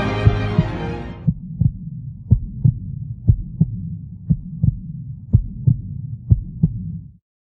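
Soundtrack music fading out in the first second, then a heartbeat sound effect: double thumps about once a second over a low steady hum, cutting off suddenly near the end.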